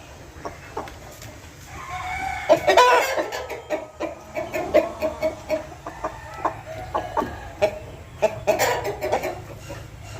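Aseel chickens clucking in short repeated calls, with a longer, louder call about two seconds in.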